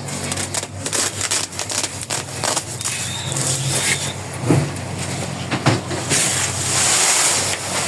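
Cooking noises at a pot: repeated knocks, clicks and scraping, with a hiss growing louder near the end.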